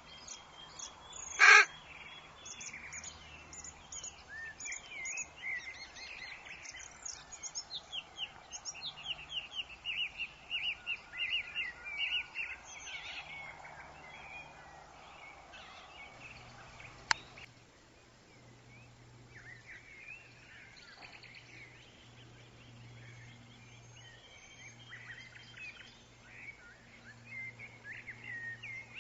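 Woodland birds chirping and singing over a faint hiss of wind. There is one loud, short call about a second and a half in, and a quick run of repeated chirps in the first half. Near the middle comes a single sharp click.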